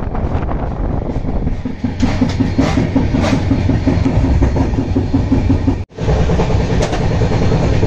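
Express passenger train running along the track, heard from on board: a steady rumble of wheels on rail with a rapid, evenly spaced clatter. The sound cuts out for an instant a little before six seconds in.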